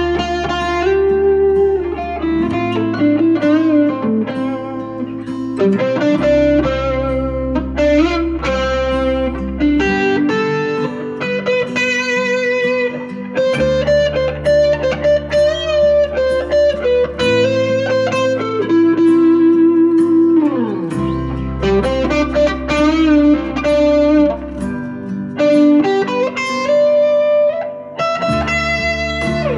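Squier Jaguar electric guitar with single-coil pickups, driven through a JHS NotaKlon overdrive pedal into a Vox AC10 valve amp, playing an improvised lead line with string bends and vibrato. Under it runs a backing track whose chords change every few seconds through D minor, A minor, C and G.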